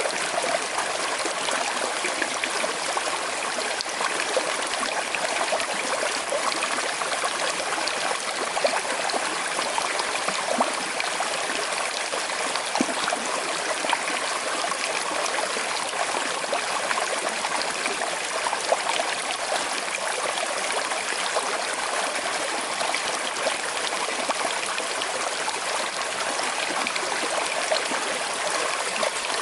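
Small river flowing steadily with a slight current, a constant rush of water with small trickling and gurgling splashes over it.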